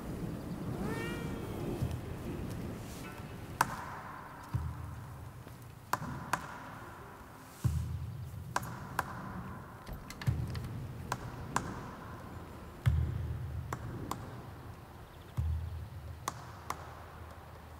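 A domestic cat meows once, about a second in. After it, a low pulse repeats about every two and a half seconds, with scattered sharp clicks.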